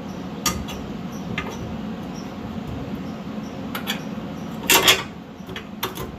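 Scattered metallic clanks and knocks as a truck's rear axle assembly is worked into position, the loudest a short burst of clanks about five seconds in, over a steady low hum.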